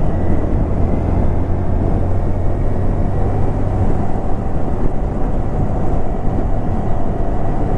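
Honda Grom's 125cc single-cylinder engine running at a steady cruise while riding, under a heavy rush of wind noise on the microphone.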